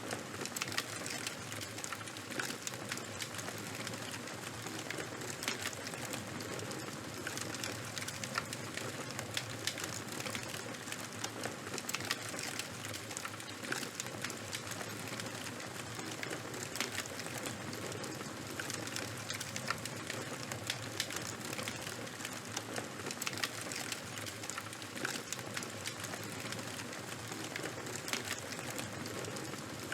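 Charcoal and wood fire burning steadily: a constant hiss of flames with many small sharp crackles and pops scattered throughout.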